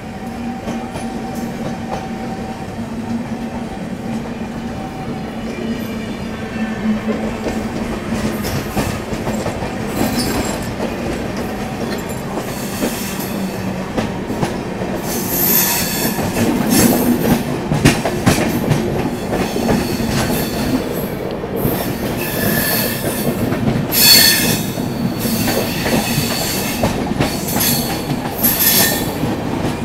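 Express train passing on the track, its wheels rumbling steadily on the rails. It grows louder in the second half, with repeated high-pitched wheel squeals, the loudest about 24 seconds in.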